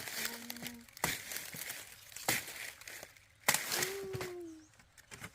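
Four sharp knocks about a second apart, the loudest near the middle, with crackling and rustling between them, and a short hummed voice around four seconds in.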